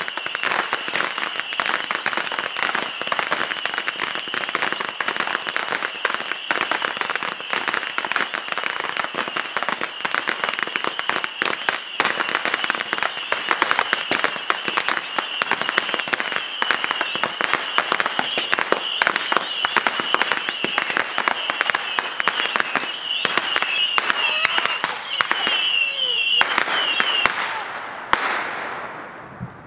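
A loud barrage of backyard fireworks: a dense, rapid string of cracks and bangs with a steady high whistle over it. The whistle wavers near the end, and the barrage stops about 28 seconds in.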